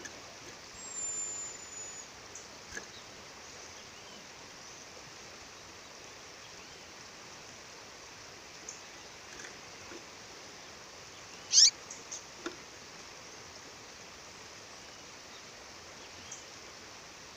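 A female bird calling: a thin high whistle about a second in, a few short faint chirps, and one loud chirp that falls steeply in pitch about two-thirds of the way through, over the steady rush of a waterfall.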